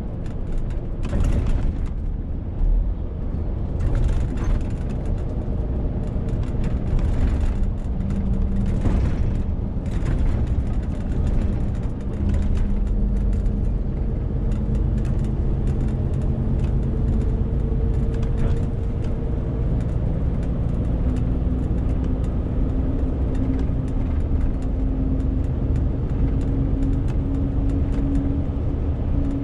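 Renault T520 lorry's 13-litre six-cylinder diesel running steadily while hauling a 40-tonne load, a continuous low drone whose pitch rises slowly over the last third. A few brief rushing noises come through in the first ten seconds.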